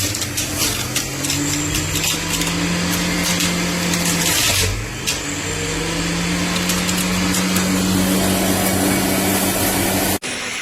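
JUILIST 400 W juice extractor's motor running at speed. Its pitch sags about four and a half seconds in, then climbs back up. It cuts off abruptly near the end.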